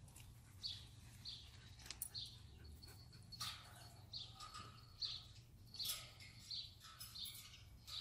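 A bird chirping softly and repeatedly, short high chirps about three every two seconds, with a few faint clicks in between.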